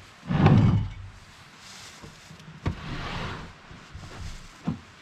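Gear being handled: a heavy thump about half a second in, a scraping slide around three seconds in, and a short knock near the end.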